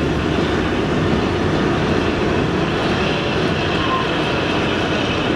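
Narrow-gauge Kalka–Shimla toy train running, heard from inside a moving carriage: a steady, loud running noise of the wheels on the track, with a faint thin high squeal coming in about three seconds in.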